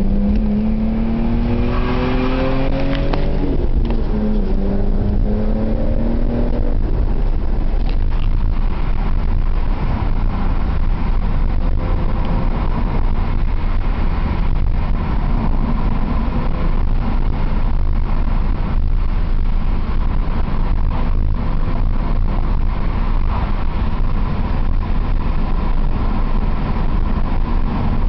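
BMW E46 M3's S54 inline-six through a UUC RSC exhaust with Rasp terminator, accelerating: the engine note rises in pitch, drops at a gear change about three and a half seconds in, and rises again. From about seven seconds it settles into steady cruising with a low exhaust drone and road noise.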